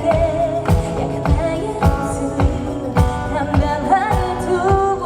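Live pop music: a female singer holding a sung melody over a band with a steady drum beat, about one kick every 0.6 seconds, amplified through the venue's sound system.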